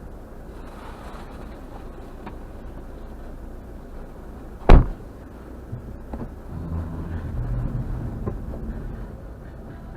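A car door slams shut once, sharply and loudly, about halfway through, over the low steady hum inside the car. A low rumble of the car follows for a few seconds.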